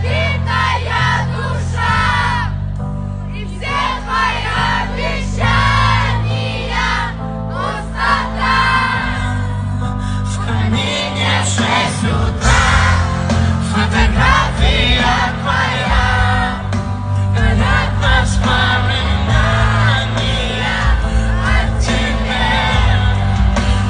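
Russian-language pop song: a male voice singing over a steady bass line and beat, with the arrangement growing fuller about ten seconds in.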